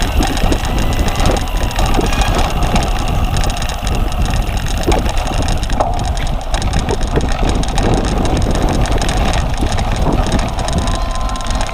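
Wind rumbling on the microphone, with a steady run of knocks and rattles from a cyclocross bike being ridden over rough ground.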